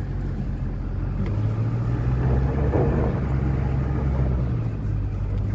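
Truck engine running with road noise while driving, a steady low drone that grows louder for a few seconds in the middle as the engine works harder, then settles back.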